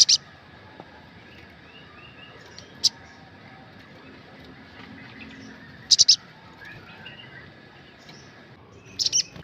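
Sunbird calling: short, sharp, high chirps about every three seconds, some single and some in quick runs of two or three.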